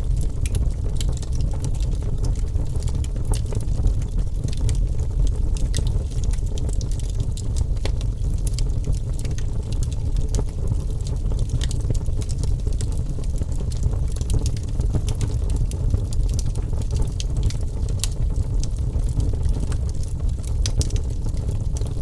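Wood fire crackling, with many small sharp pops and snaps over a steady low rumble of burning.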